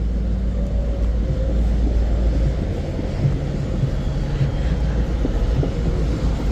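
Steady rumble of highway traffic passing close by: engines and tyres of cars and trucks running in a continuous stream.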